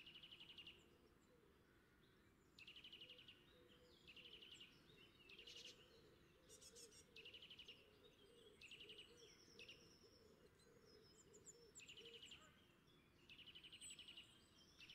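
Faint birdsong: short, buzzy trilled chirps repeated about once a second, with a few thin high whistles between them.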